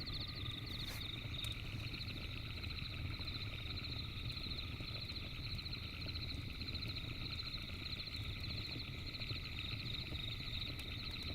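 A steady night chorus of fast, high trills from many calling creatures, with a few sharp pops of a crackling campfire and a low steady rumble underneath.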